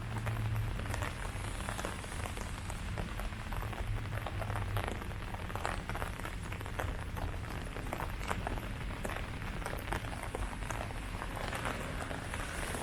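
Steady rain falling on leaves, with many separate drops heard as small ticks over an even hiss.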